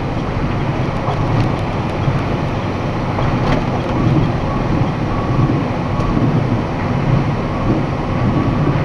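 Steady engine and road noise inside a moving box truck's cab, with a few faint rattles.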